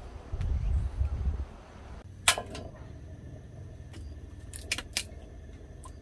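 A low rumble, then a sharp clack with a brief ring a little over two seconds in, followed by two lighter clicks near the end, like small hard objects knocking together.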